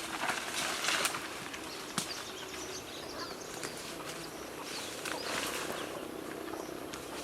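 Forest ambience: uneven rustling swells, with a single sharp click about two seconds in and faint high bird chirps.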